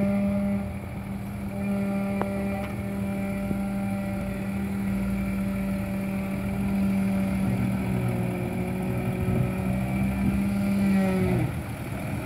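Jeep Grand Cherokee ZJ engine running at steady, held revs as the off-road Jeep crawls slowly over rocks: a steady droning hum, its pitch dipping briefly near the end.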